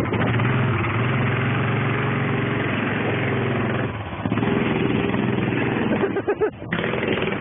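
Chopper motorcycle engine running under way, heard from the bike. The engine note drops about four seconds in and then picks up again, and it is briefly broken up near the end.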